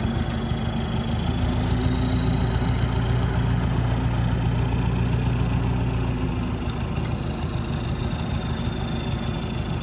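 Heavy earthmoving machine's diesel engine running steadily, swelling about a second and a half in and easing off again around six seconds, with a faint thin high whine over it.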